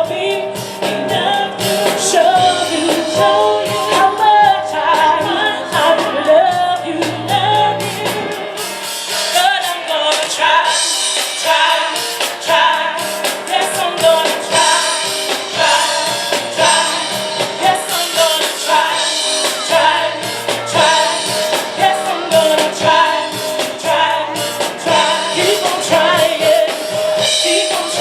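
Gospel singing by female voices, backed by piano and a drum kit with a steady beat.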